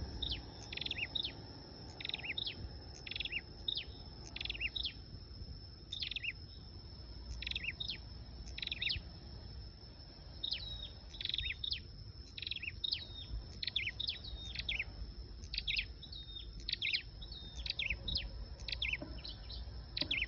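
Sâu đầu đỏ, a small flowerpecker, calling over and over as a lure call: short, high, sharp chips that sweep downward, often in twos or threes, coming every half second or so with brief pauses.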